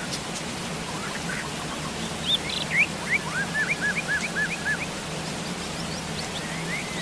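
Steady rain falling, with a bird calling over it: a few rising chirps, then a quick run of short repeated arched notes a little before the middle.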